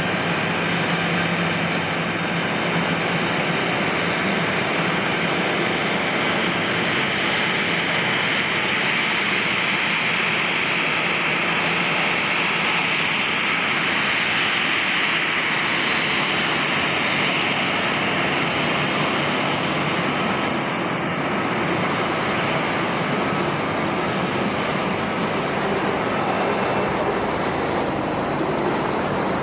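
Airbus A320 airliner's twin jet engines running loud and steady, a continuous rushing jet noise that swells slightly in its upper pitch partway through.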